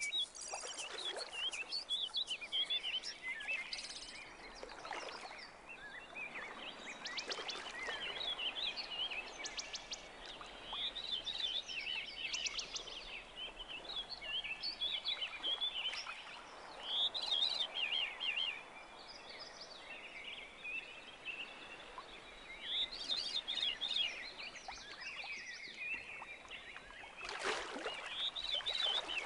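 Wild birds singing: many quick, high chirping phrases, one overlapping another, over a faint steady outdoor hiss.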